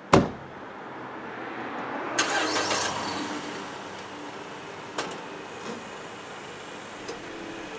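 A car door slams shut, then about two seconds later a Mazda5 minivan's four-cylinder engine cranks and catches, settling into a steady idle. Two light clicks follow during the idle.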